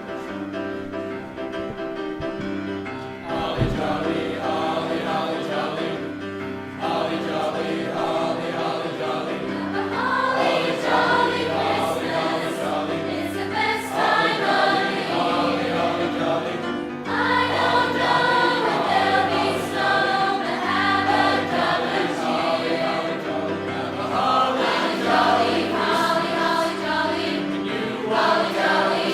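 High school choir singing a Christmas concert piece over a sustained instrumental accompaniment with a steady low pulse about once a second.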